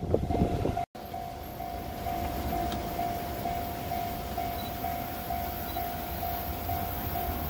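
Low rumble of a 211 series electric train approaching from a distance, with a steady high ringing tone pulsing a couple of times a second. It opens with the louder noise of a passing train, cut off abruptly just under a second in.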